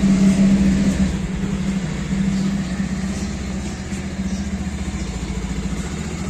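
Single-cylinder engine of a new Bajaj Pulsar motorcycle running steadily at low revs as the bike is ridden slowly out. It is a little louder in the first second.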